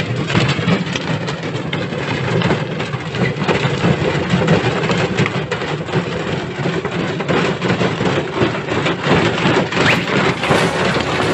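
Washing machine running with a brick tumbling in the drum: a continuous dense clatter of knocks and bangs over the machine's motor hum.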